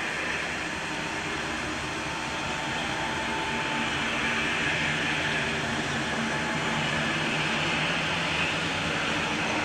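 Rhaetian Railway train running, a steady rolling noise that grows slowly louder.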